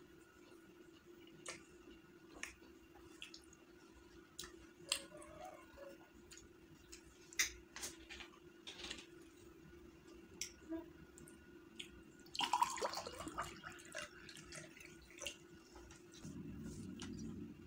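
Close-miked eating sounds from a mouthful of chicken biryani eaten by hand: scattered wet mouth clicks and smacks while chewing, with a longer, denser burst about two-thirds of the way through. A faint steady low hum runs underneath.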